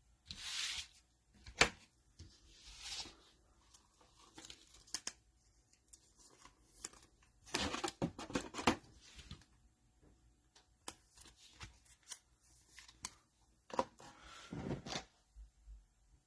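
Trading cards being handled and a cellophane-wrapped card pack torn open: irregular short tearing and crinkling rustles with light clicks of cards, the longest rustle about eight seconds in.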